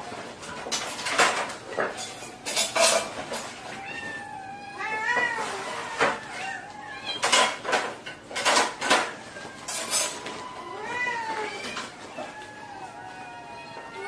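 A domestic cat meowing several times, in drawn-out calls that rise and fall in pitch, among sharp clattering knocks.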